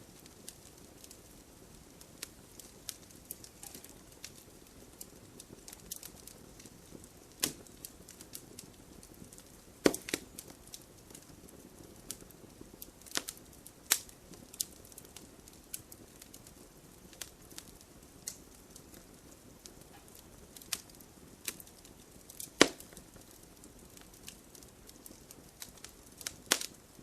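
Wood fire burning in an open fireplace: irregular crackling over a low hiss, with several louder sharp pops.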